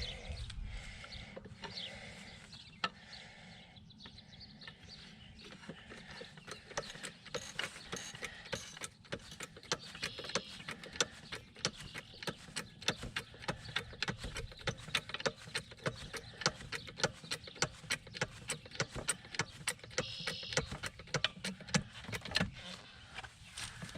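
A jack being worked to lift a small shed: a steady run of short metallic clicks, a few a second, starting about six seconds in.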